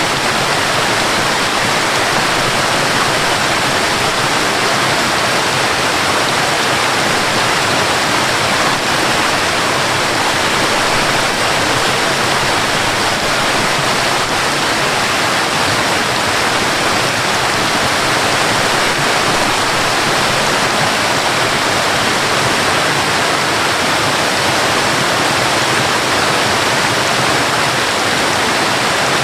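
Waterfall: a loud, steady rush of falling water with no change in level.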